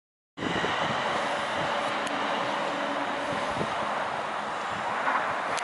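Steady noise of a passing vehicle, cutting in abruptly from silence just under half a second in.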